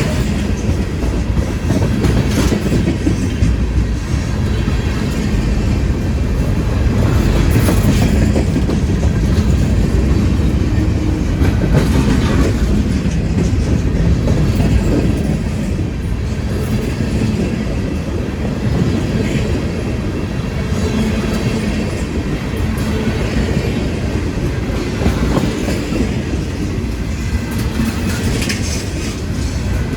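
Freight cars of a long train rolling past: a steady, loud rumble of steel wheels on rail, with scattered clacks as the wheels cross rail joints.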